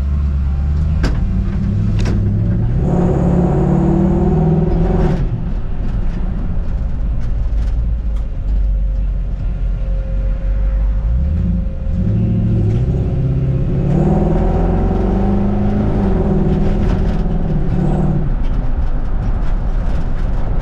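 The Mustang 5.0-litre V8 in a 1960 Ford F100 pickup, driving and accelerating. Its revs climb twice, about two seconds in and again from about the middle, each time dropping back after a few seconds.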